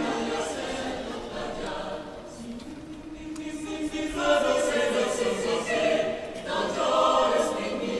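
Choir singing a cappella, several voices holding sustained chords together. It eases off about two seconds in, then swells louder from about halfway.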